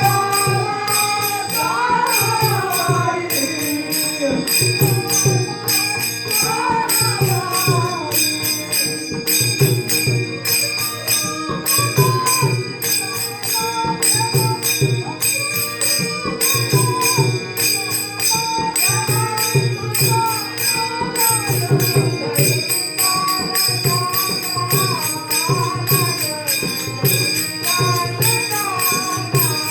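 Marathi Varkari bhajan music: a melodic line sung or played over a steady rhythm of jingling hand cymbals and drum beats.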